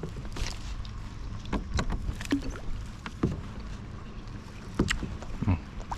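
Kayak paddling: a paddle dipping and splashing in the shallow water, with irregular knocks of the paddle against the kayak's hull.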